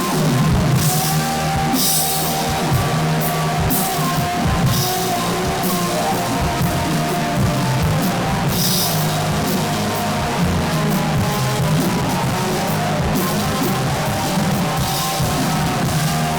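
Loud rock music from a band: a drum kit with repeated cymbal crashes over steady guitar and bass.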